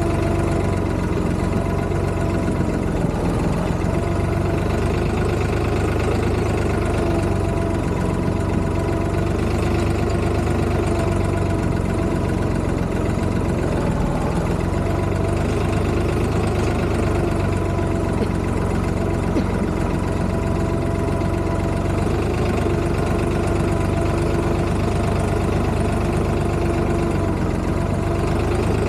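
Tractor engine running steadily at an even speed, with no change in pitch or loudness.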